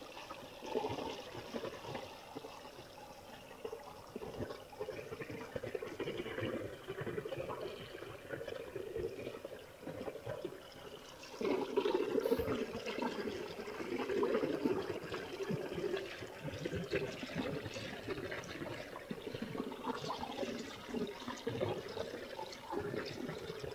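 Water running and splashing over a small creek waterfall, a steady rushing that grows louder about halfway through.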